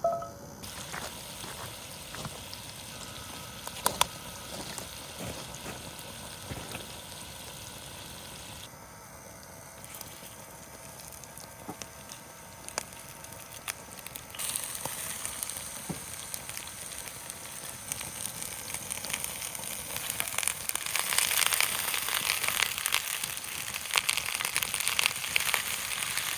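Beef shish kebabs sizzling in a pan over a small wood-burning camp stove. There are a few sharp clicks early on. The sizzle swells about a third of the way through and gets louder again near the end.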